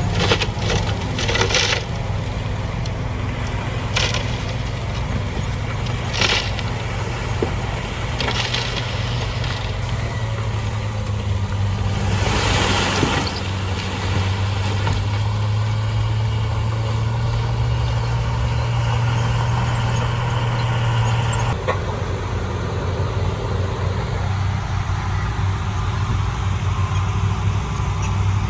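Heavy earthmoving machine's diesel engine running steadily with a deep hum, with several short rushing noises in the first half, the longest about twelve seconds in. About twenty-one seconds in the engine note changes abruptly and drops slightly.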